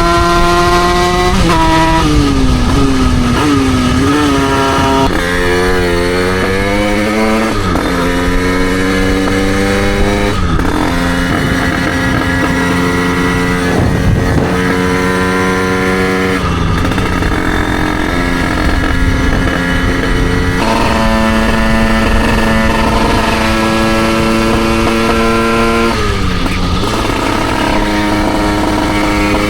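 Derbi Senda's two-stroke single-cylinder engine, bored out to 88cc, running under load while riding. The revs climb in stretches and drop suddenly every few seconds, with brief wavering of the pitch a few seconds in.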